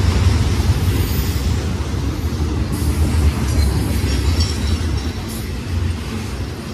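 Double-stack intermodal container train rolling past close by: a steady low rumble of steel wheels on the rails, easing slightly near the end.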